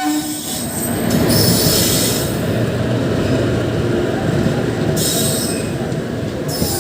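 Passenger train's steel wheels running on the rails with a steady rumble, breaking into high-pitched wheel squeal twice: for about a second near a second and a half in, and again from about five seconds in.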